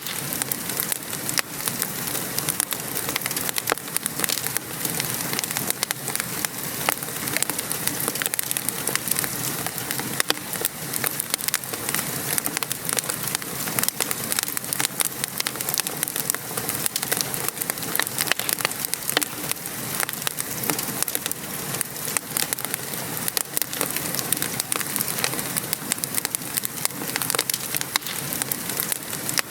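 Steady rain falling, with a fireplace fire crackling over it in many small, sharp pops.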